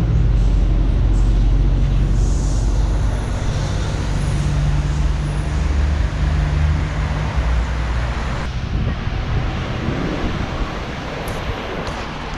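Street traffic: a large motor vehicle's engine running close by as a loud, low, steady hum for most of the first eight seconds, then easing into fainter road noise.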